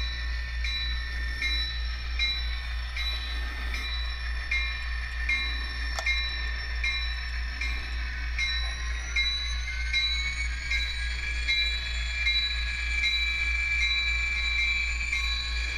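Model train locomotive running on layout track: a steady hum with high tones pulsing about every three quarters of a second. A high whine rises in pitch about nine seconds in.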